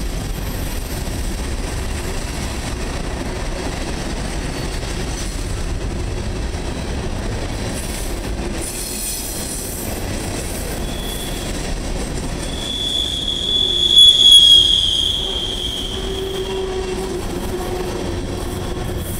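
Herzog ballast train's HZGX hopper cars rolling past with a steady rumble and clatter of steel wheels on rail. About two-thirds of the way through, a loud, high wheel squeal rises and holds for about three seconds, then fades.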